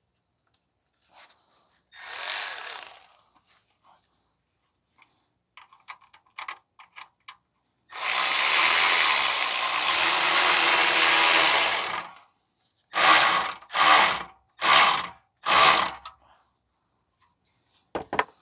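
Power tool driving the screw of a band clamp tight around a loose exhaust heat shield: one long run of about four seconds, then four short pulses about a second apart as the clamp is snugged down, with a few small metal clicks around it.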